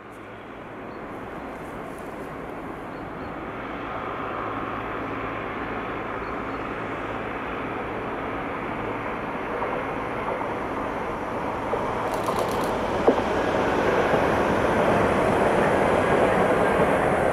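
ÖBB class 4024 Talent electric multiple unit approaching and passing on the line, its running noise on the rails growing steadily louder, with a single sharp click about thirteen seconds in.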